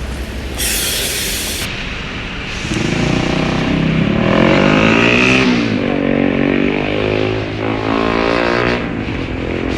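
A vehicle engine accelerating: its pitch rises, drops at what sounds like a gear change about halfway through, then rises again. A short hiss comes about a second in.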